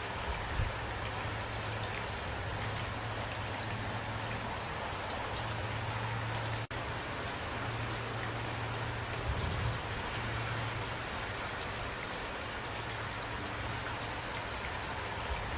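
Steady rain with individual drops pattering, over a low steady hum. The sound cuts out for an instant about seven seconds in.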